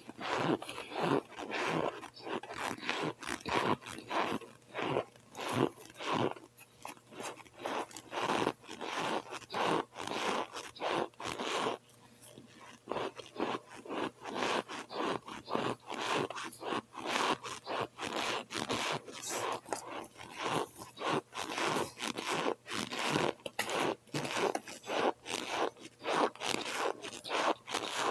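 Chewing cold chunks of boiled cornstarch, a dense run of crunches close to the microphone, with a short pause about twelve seconds in.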